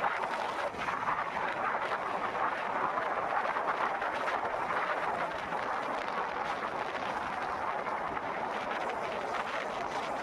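Steady rushing road and wind noise from a moving vehicle, even in level throughout.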